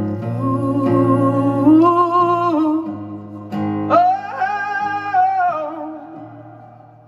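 Live rock performance of acoustic guitar chords under a wordless sung melody. The voice wavers and climbs in pitch twice, then the sound fades away near the end.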